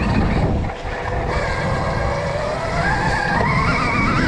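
Onboard sound of a Stark Varg electric dirt bike ridden on a dirt track: rumbling tyre and wind noise, a brief let-off about a second in, then the motor's whine rising in pitch as it accelerates.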